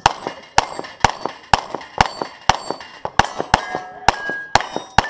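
A rapid string of pistol shots, about two a second, a dozen in all, each hit answered by the clang of a steel target plate ringing on.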